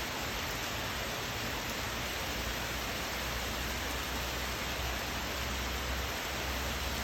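Steady rain, an even hiss with no single drops standing out, over a low rumble that grows a little stronger about two seconds in.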